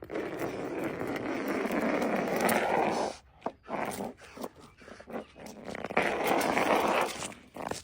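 A dog growling in two long rough stretches, the first about three seconds long and the second near the end, with a few short sounds between.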